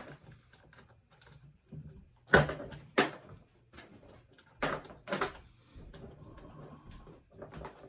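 Hard clacks and knocks of a chainsaw's bar, chain and cover being handled and fitted into place. Four sharp knocks, in two pairs about two seconds apart, stand out over faint rattling.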